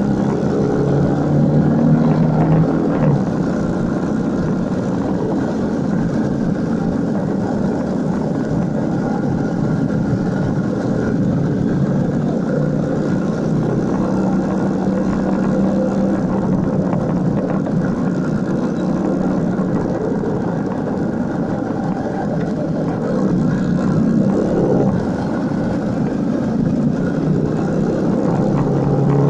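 Motorcycle engine running under way, heard from a bike-mounted dashcam over a steady rush of riding noise. The engine note shifts in pitch a few times as the throttle changes.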